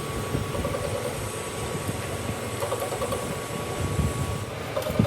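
Steady low mechanical rumble, with short knocks about four and five seconds in.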